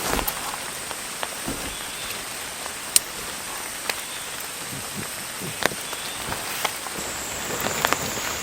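Steady heavy rain falling, with a sharp single tap standing out now and then, every second or two.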